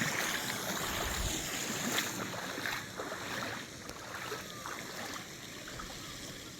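Shallow lake water sloshing and splashing around bare feet and legs wading through it, busier in the first couple of seconds and then quieter, with wind on the microphone.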